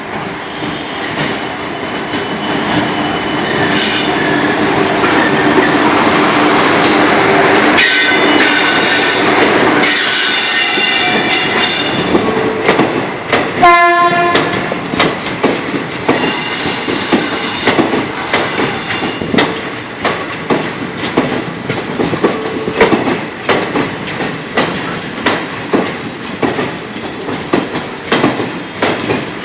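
Train pulling out behind a WAP-4 electric locomotive: the locomotive and coaches run past, their noise building over the first several seconds, with a short horn note about fourteen seconds in. Then comes a repeated clickety-clack of coach wheels over rail joints.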